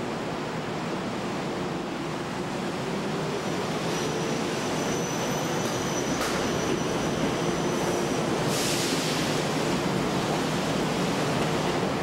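Kintetsu 20000 series "Raku" electric train pulling out of an underground station platform, its running noise growing steadily as it gathers speed past the platform. A thin high whine comes in midway and there is a burst of hiss about eight and a half seconds in.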